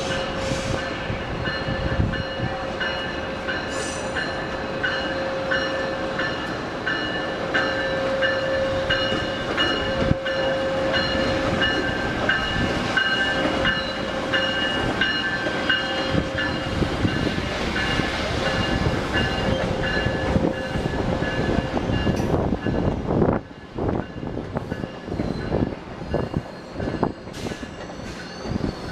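A train rolling past on the tracks: a steady whine with a rhythmic clatter. About 23 seconds in, the sound drops and turns choppy and uneven.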